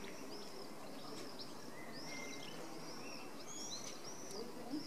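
Small birds chirping and singing, many short high calls repeating one after another, over a steady low outdoor background.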